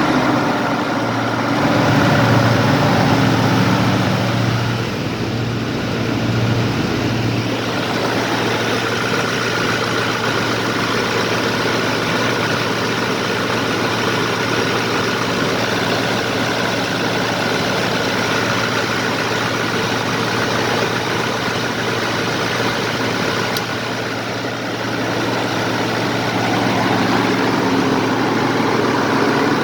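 Ford 6.4L Power Stroke V8 turbo-diesel idling steadily just after starting. It runs a little louder for the first several seconds, then settles into an even idle.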